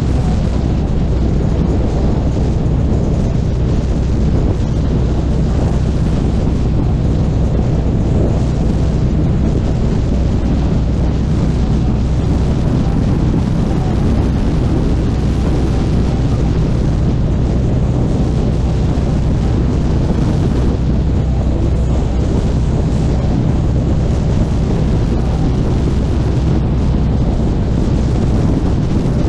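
Harley-Davidson Street Glide Special's V-twin engine running at a steady, low note on the move, with wind buffeting the microphone.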